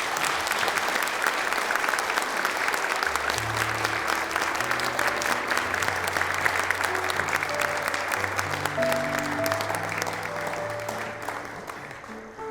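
Audience applauding, a dense steady clapping that thins out near the end. About three seconds in, instrumental music with held bass notes comes in under the applause.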